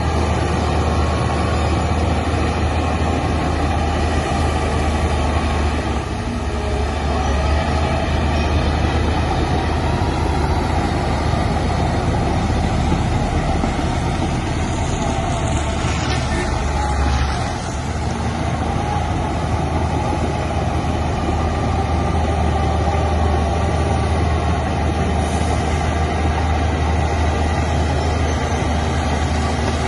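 Heavy diesel engine of earthmoving machinery running steadily with a deep hum, easing briefly twice, about six seconds in and again near eighteen seconds.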